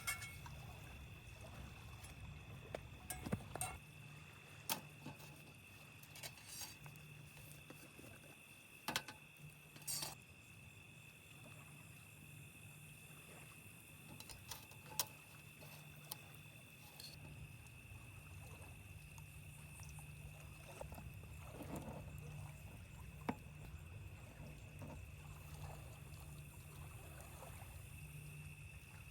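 Steady high-pitched insect chirring, likely crickets, with scattered faint clicks and knocks.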